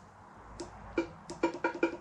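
Motorcycle handlebar switch clicked over and over in quick, uneven presses, a dozen or so short plastic clicks. The horn button gets no horn sound: the horn is not working.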